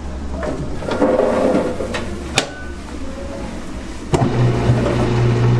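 Kitchen work sounds: a few sharp clinks of dishes or utensils over a steady low hum, with a louder low machine hum starting about four seconds in.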